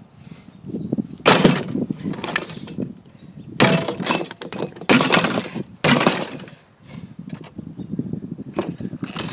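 A mini fridge being smashed with heavy blows: four loud strikes a second or so apart, each followed by breaking and rattling, then a few lighter knocks near the end.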